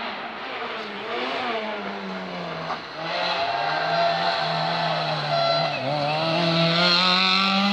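Rally car engine running hard through a tight tarmac hairpin: the revs sink as the car slows into the bend, then climb steadily near the end as it accelerates out.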